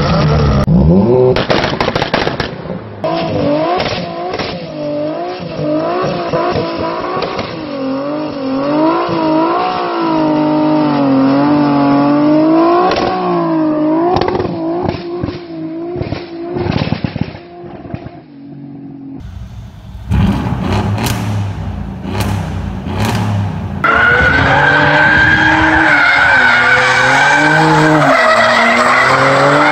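Car engines at high revs with tyres squealing and wavering in pitch, in several short clips one after another. Around twenty seconds in come a few sharp exhaust bangs.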